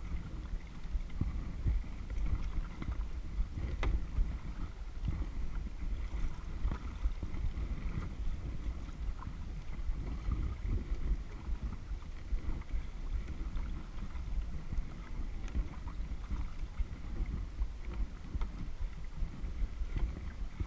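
A kayak out on a lake: water lapping and splashing around the hull and paddle, with small drips and clicks, and a steady gusting rumble of wind on the microphone.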